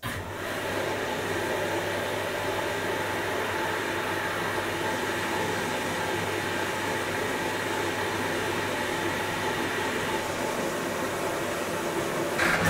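Washing machine running: a steady mechanical hum and whirr that starts abruptly and holds evenly.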